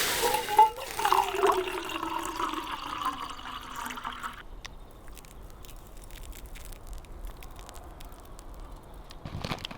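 Liquid being poured into a container, splashing for about four seconds with a changing pitch, then stopping. Faint scattered clicks follow.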